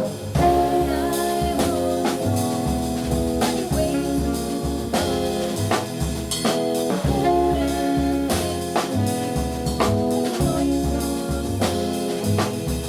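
Small jazz group playing: a pitched melody line, likely alto saxophone, over keys, walking double bass and a drum kit keeping time with frequent cymbal and drum strokes.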